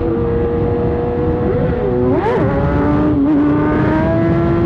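Inline-four 600cc sport bike engine running at road speed under wind rush, its pitch steady apart from a quick rev up and back down about two seconds in.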